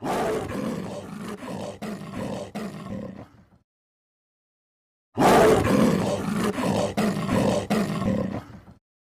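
Big cat roaring, in two separate bursts of about three and a half seconds each with a gap of silence between them.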